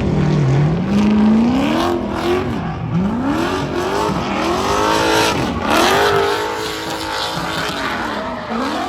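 A car's engine revved hard and let off over and over, its pitch swinging up and down about every one to two seconds, with tires squealing as the car spins through a burnout run.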